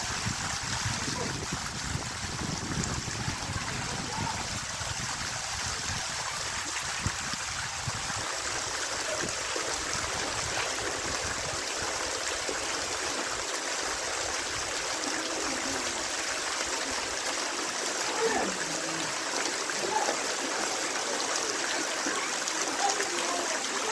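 Waterfall pouring steadily: a constant, even rush of falling water, with faint voices now and then.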